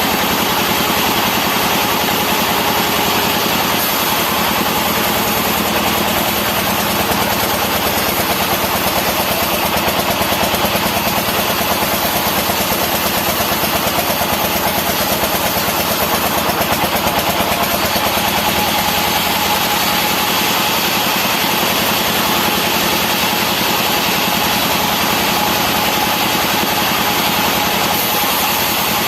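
Sawmill machinery running steadily, a continuous engine-and-saw noise that holds an even level throughout.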